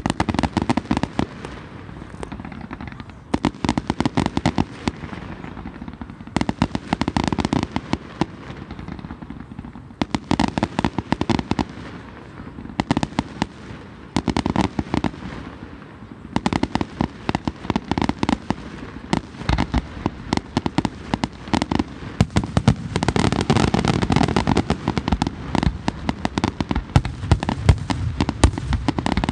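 Fireworks display: rapid volleys of bursting shells and crackling, coming in dense clusters a few seconds long with brief lulls between, thickest and loudest in the last several seconds.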